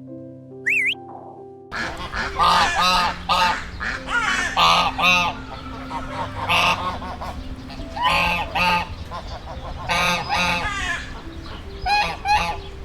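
A short musical jingle with a rising whistle, then, from just under two seconds in, a flock of fowl calling loudly over and over.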